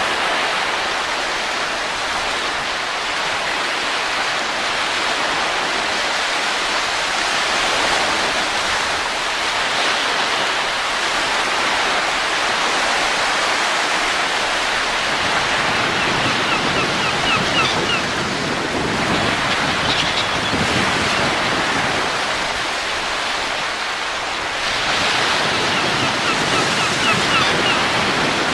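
Steady rushing wind, swelling and easing, with a few faint, short high chirps in the second half.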